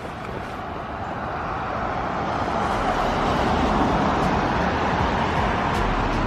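A car driving past on a snowy road, its tyre noise rising over the first few seconds and then holding steady until it cuts off abruptly at the end.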